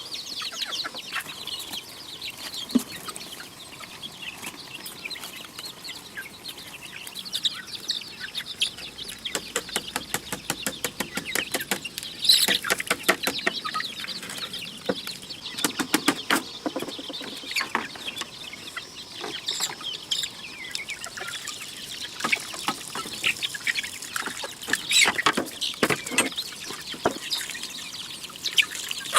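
Chickens clucking and chirping, with short high calls throughout and bursts of rapid clicking around the middle.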